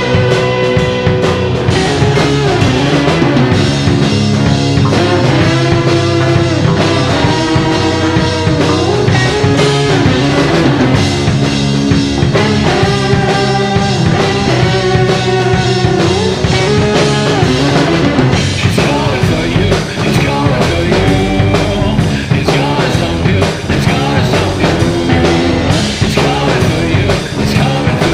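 Loud rock music from a full band: drums and bass driving steadily under a melodic lead line.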